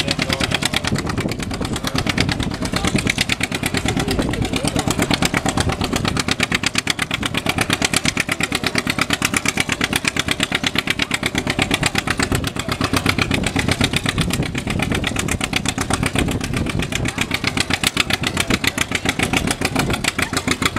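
A tractor-pull vehicle's engine running steadily and loud, with a rapid, even firing pulse and no clear rise or fall in speed.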